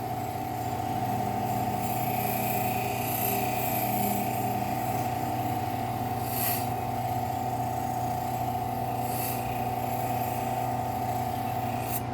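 Bench grinder running steadily with a Scotch-Brite wheel, a rusty knife blade held against it to buff off the rust, with a few brief louder hissing passes of the blade.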